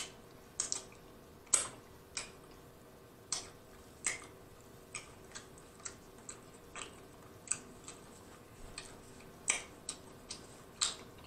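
Close-miked chewing of barbecue ribs: a string of short, irregular wet mouth clicks and smacks, faint.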